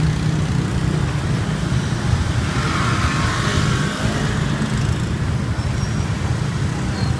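Dense street traffic of small motorbikes, many engines running together in a steady drone. One vehicle passes closer about three seconds in, rising and falling away within a second or so.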